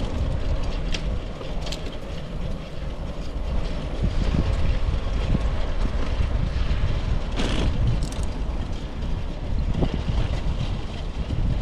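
Road and wind noise from a moving bicycle: a steady, loud low rumble of wind on the microphone and tyres on pavement, with a few light clicks and a brief louder hiss about seven seconds in.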